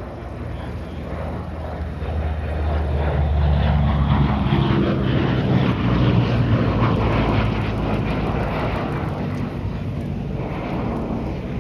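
Lockheed P-38 Lightning's twin Allison V-12 piston engines as the plane flies past, growing louder to a peak a few seconds in and then slowly fading.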